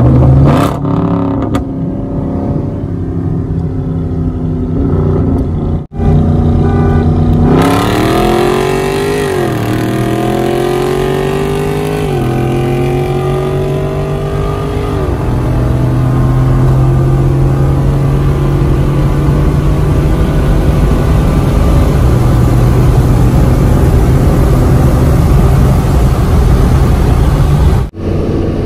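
Camaro SS's muffler-deleted 6.2-litre V8 cruising steadily, then about seven seconds in accelerating hard from a roll: the engine note climbs in pitch and drops back at three upshifts, then runs on loud at speed. Heard from inside the cabin.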